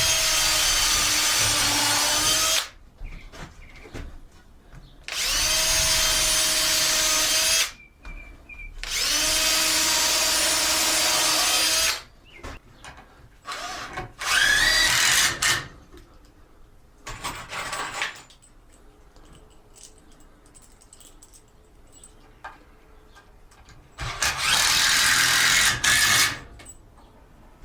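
Electric screw gun driving screws into wood: its motor runs in five separate bursts of about two to three seconds each, each at a steady high whine. The owner suspects the screw gun might be getting worn out.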